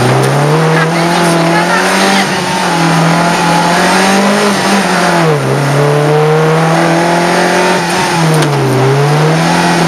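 Rally car engine at racing revs, heard from inside the cabin. The pitch climbs over the first few seconds, falls sharply about five seconds in, rises again, and dips briefly near the end.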